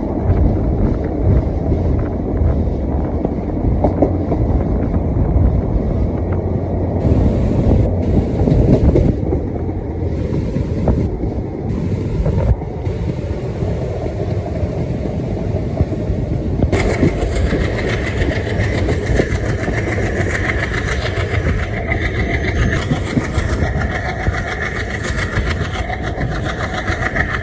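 A train running on the rails: a steady heavy rumble with wheels clattering over the rail joints. About two-thirds of the way in, the sound turns brighter and hissier, and a thin high whine joins near the end.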